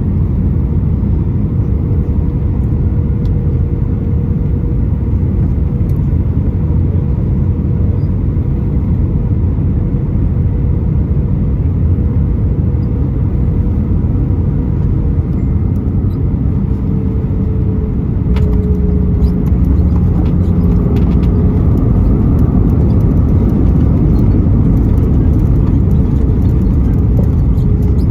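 Cabin noise of an Airbus A320 on short final and landing: a steady low roar with a faint engine tone that slowly drops in pitch. About two-thirds of the way through come a few thuds as the jet touches down, and after them the roar grows louder and stays up as it rolls out.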